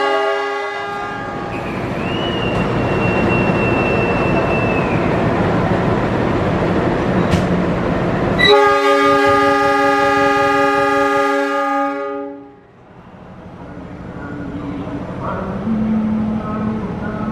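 Train passing with its horn sounding twice: a horn chord at the start and a longer blast of about three and a half seconds partway through. Between the blasts, rail and running noise with a high, steady squeal for a few seconds. After the second blast the sound drops off sharply to a quieter rumble.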